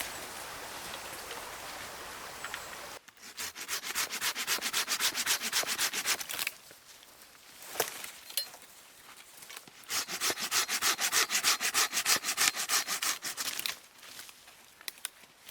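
Fast rhythmic scraping strokes, about eight a second, in two runs of roughly three to four seconds each, with a quiet pause between them. A steady hiss comes before the first run.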